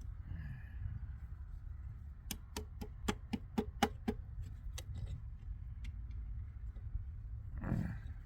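A quick run of about nine sharp metal-on-metal clicks and taps over two and a half seconds, then a duller knock near the end. This is a screwdriver working at a stuck pin in a large circuit breaker's linkage, over a steady low hum.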